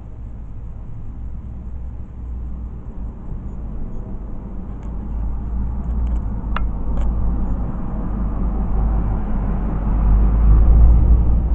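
Low, steady rumble that swells to its loudest near the end, with a single sharp click about halfway through.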